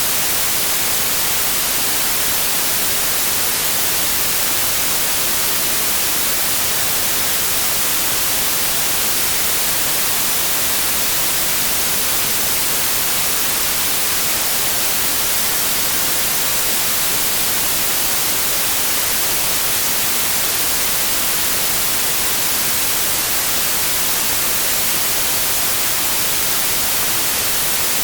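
Synthetic white noise: a steady, unchanging hiss, brighter in the treble, with no events or variation.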